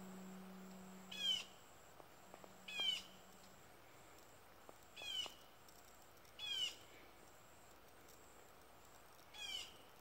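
A bird calling outdoors: a short call of quick falling notes, repeated five times at intervals of one and a half to two seconds. A faint low hum fades away in the first few seconds.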